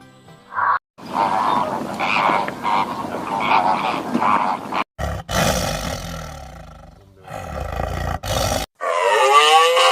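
A run of deep animal growls and roars in several separate bouts, cut apart by brief silences. Near the end they give way to a drawn-out pitched call that bends up and down.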